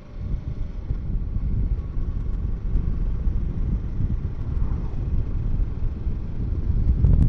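Kawasaki Versys 650 parallel-twin motorcycle riding at low speed, its engine rumble mixed with steady wind noise on the rider's microphone.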